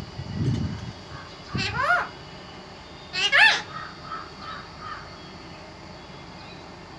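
Pet parrot calling: two loud rising, meow-like calls, about one and a half and three and a half seconds in, followed by a few softer short chirps.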